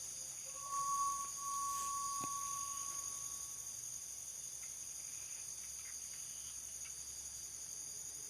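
Steady high-pitched chorus of night crickets. For a few seconds near the start a thin steady tone of unknown origin sounds over it, with a single small click about two seconds in.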